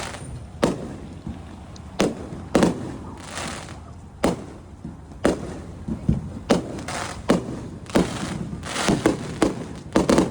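Fireworks display: aerial shells bursting one after another, a sharp bang every half second to a second, several followed by a crackling fizz.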